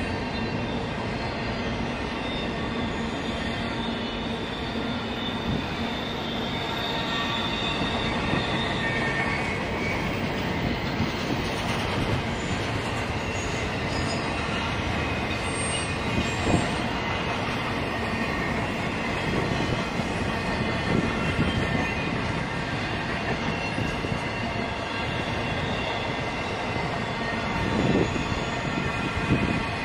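Freight cars rolling past on steel rails: a steady rumble of wheels with sustained high wheel-squeal tones, and a couple of louder clanks, one about halfway through and one near the end.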